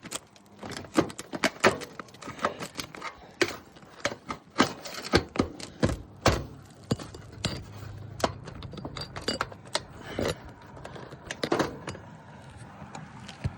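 Irregular sharp clicks, taps and scrapes of a tool working a roofing nail out from under sealed asphalt shingles around a roof box vent.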